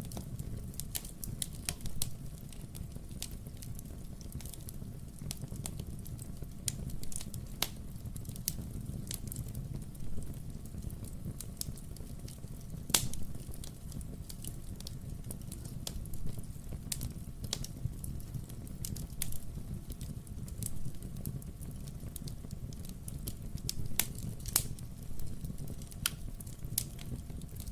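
Wood fire burning in a fireplace: a steady low rumble of flames with irregular crackles and occasional sharper pops from the burning logs.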